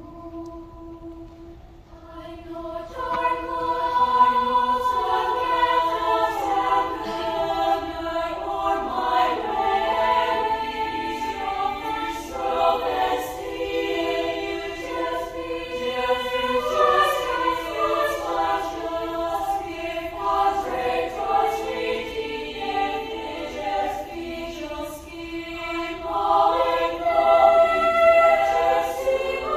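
Children's choir singing in harmony. A few soft held notes open, then the full choir comes in loudly about three seconds in.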